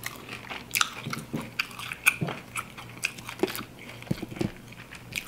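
Chewing and biting into crispy fried chicken wings, a dense run of short crunches and wet mouth clicks.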